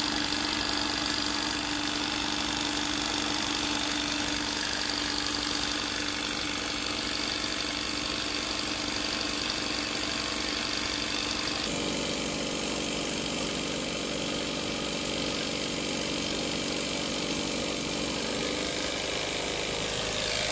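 Jensen 20-S model steam engine running steadily with its small generator, a continuous mechanical whir. The pitch of its running sound shifts abruptly a little over halfway through.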